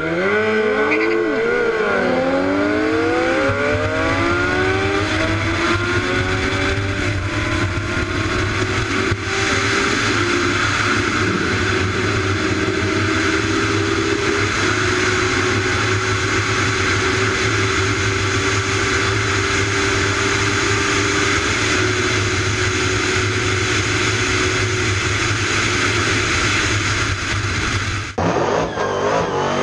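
Engine of a 1000 cc inline-four sportbike accelerating hard through the gears, heard from the rider's camera. The pitch climbs in quick rising sweeps that drop back at each upshift, then holds a high, steady note at speed under heavy wind rush. The engine note drops out abruptly near the end.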